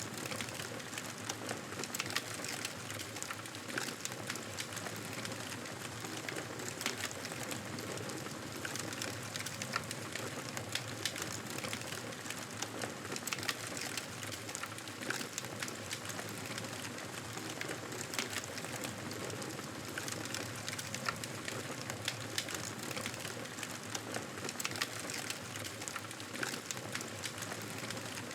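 Wood fire crackling steadily: a continuous soft hiss with frequent small, sharp pops scattered irregularly throughout.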